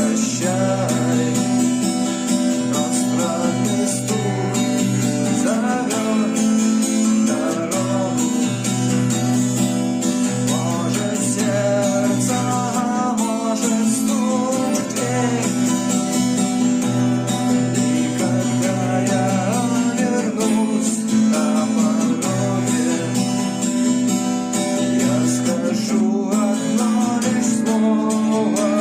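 Acoustic guitar strumming an instrumental passage of a song, with a melody line moving over the chords.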